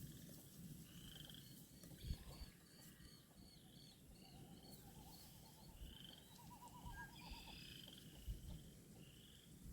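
Faint wetland spring chorus: a run of short high chirps repeating about three times a second, other scattered bird calls, and a low, quickly pulsing trill in the middle. Wind rumbles on the microphone underneath.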